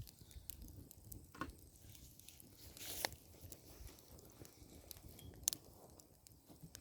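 Campfire burning down to coals, with faint scattered crackles and pops from the embers and a last piece of hard log; one sharper pop about five and a half seconds in.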